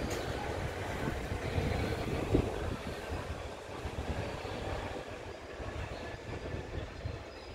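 Train of BCNA covered freight wagons rolling past, the wheels rumbling and clattering over the rails, with one louder knock a little over two seconds in.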